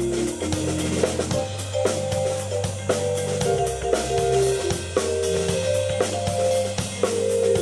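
Live keyboard and drum kit duo playing a rock jam: held keyboard chords and melody notes over a low bass line, with a steady beat of bass drum, snare and cymbals.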